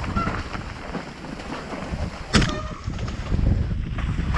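Mountain bike rolling fast down a wet trail, with wind buffeting the microphone and the rumble and rattle of the bike over rough ground. A sharp knock about two seconds in, as the bike takes a hit.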